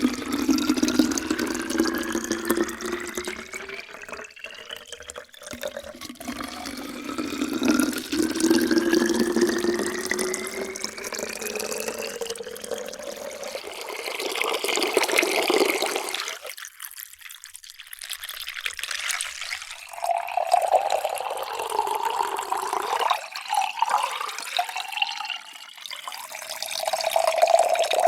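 Water being poured into containers, several pours in turn; the pouring note rises steadily in pitch as each vessel fills, with a brief lull about two-thirds through.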